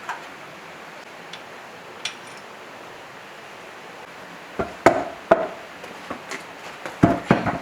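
Metal machine parts knocking and clinking as they are handled on a workbench: a few sharp knocks starting about halfway through, the loudest near the end.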